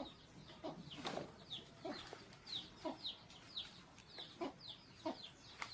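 Baby birds in the nest peeping: a run of short, high, falling chirps about twice a second, with lower, shorter calls mixed in.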